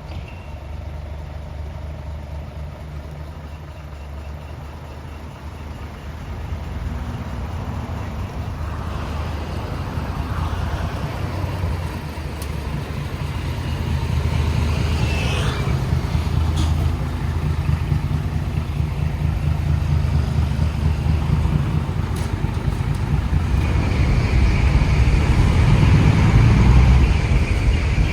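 Isuzu Forward truck's diesel engine running through a split exhaust manifold (mani-wari) and a single silencer, giving a raw, lightly muffled exhaust note. The exhaust grows steadily louder over the course of the clip.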